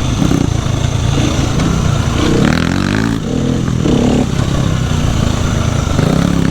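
Dirt bike engine running hard on a trail, the revs rising and falling with the throttle, with a climbing rev about two and a half seconds in and another near four seconds.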